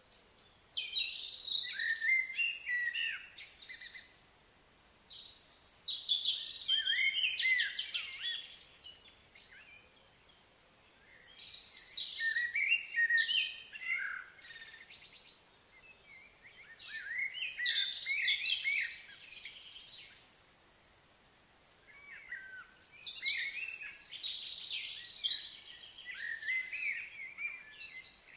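A songbird singing in five phrases of quick, rising and falling chirps, each a few seconds long, with pauses of about two seconds between them.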